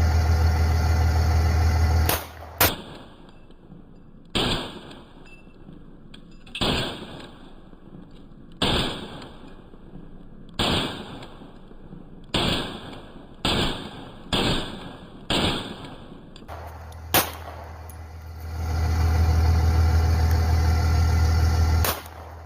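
Canik 9mm pistol fired in slow single shots, about ten of them spaced one to two seconds apart, each with a short fading tail. A loud steady low rumble comes before the first shot and again after the last.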